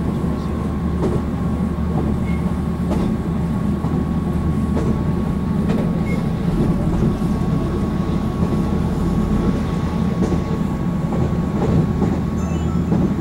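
Taiwan Railways EMU700 electric commuter train running, heard from inside the passenger car: a steady low rumble of wheels on rail with a thin steady high tone over it and a few faint clicks.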